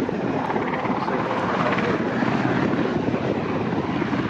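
Sea King helicopter in flight, its rotor blades making a steady, rapid chop.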